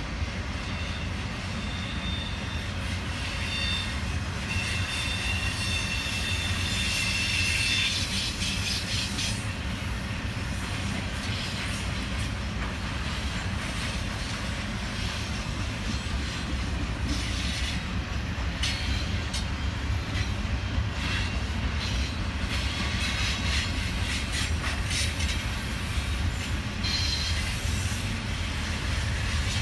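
Union Pacific double-stack intermodal freight train rolling past: a steady rumble of stack-car wheels on the rails. Thin, high wheel squeal comes in for several seconds near the start. Wheel clicks and clanks come over the rail joints later on.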